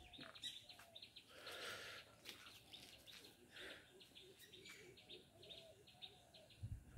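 Faint bird chirping: many short, quick calls.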